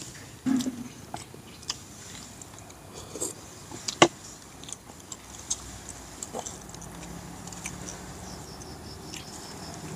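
Close-up mouth sounds of a man eating rice and fish with his fingers: chewing and lip smacks, with scattered small clicks, the sharpest about four seconds in.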